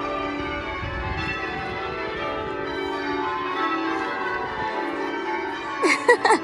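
Church bells ringing changes: many overlapping bell tones ring on and on. A few short, loud, sharper sounds break in near the end.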